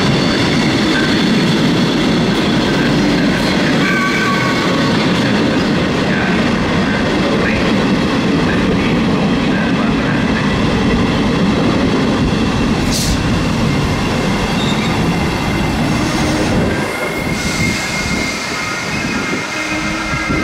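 Train rolling through the station with a steady rumble of wheels on rail and short high wheel squeals. The rumble drops away about sixteen seconds in, leaving a thin steady squeal.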